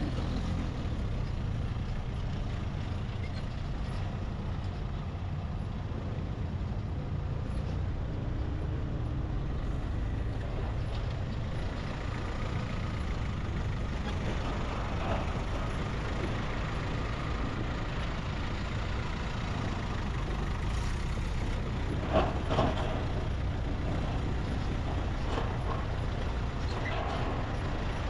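Riding a motorbike through city traffic: a steady low rumble of engine and road noise, with a few brief louder sounds from passing traffic, the loudest about 22 seconds in.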